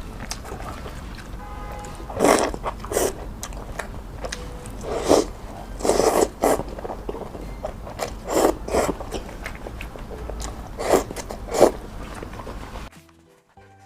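Close-miked eating: a person biting and chewing food in a string of short, irregular bursts. Near the end the sound drops out almost to silence.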